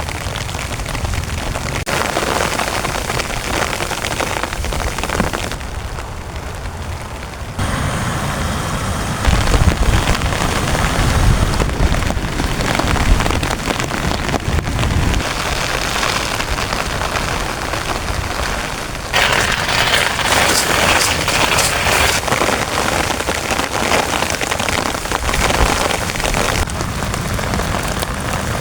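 Heavy rain falling on a tent, a dense steady patter that shifts abruptly in tone and loudness every few seconds, with a low rumble underneath from about eight to fifteen seconds in.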